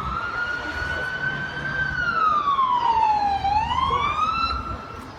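Emergency vehicle siren wailing, its pitch sliding slowly down and back up in a long rise-and-fall cycle. It grows louder through the middle and cuts off shortly before the end.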